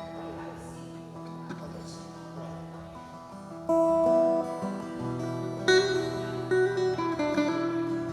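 Acoustic guitar playing: a strummed chord rings out and fades, a new chord is struck about three and a half seconds in, then single notes are picked over it, moving in pitch.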